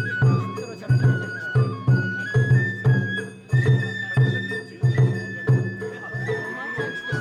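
Japanese festival music (hayashi): a bamboo flute holding a high melody that steps between notes, over steady taiko drum beats.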